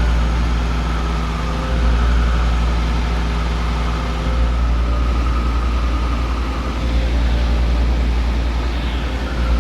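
Cessna 172 Skyhawk's piston engine and propeller droning steadily in flight.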